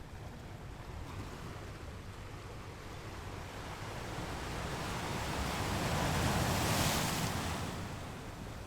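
Ocean waves: surf noise that swells slowly into one breaking wave about two-thirds of the way through, then fades back.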